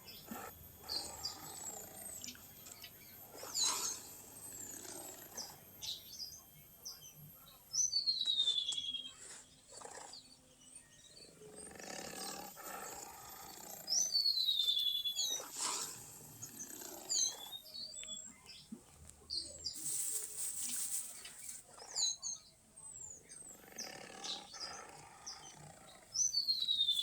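Short, high, descending bird chirps repeating throughout, over rough animal-like calls that come every few seconds.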